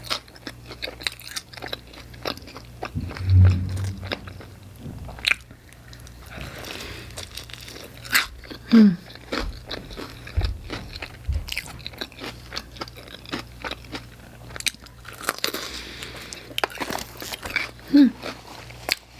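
Close-up biting, crunching and chewing of pizza topped with Hot Cheetos, a dense run of short crisp crunches throughout.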